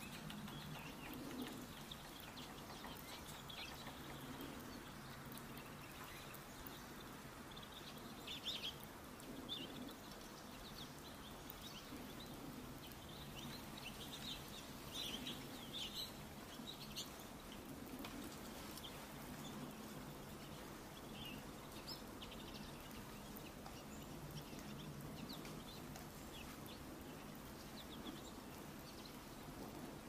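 Faint, short, high bird chirps scattered through, most of them clustered in the middle, over a low steady hum.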